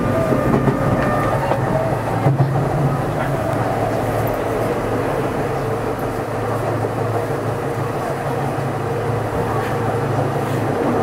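Tokyo Metro 03 series electric train running along the line, heard from inside the car: a steady rumble of wheels on rail with a low hum. There is a single knock about two seconds in.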